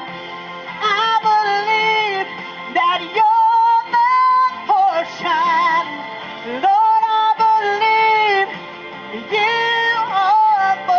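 Woman singing gospel worship in long, drawn-out phrases with vibrato and sliding runs, over steady instrumental accompaniment.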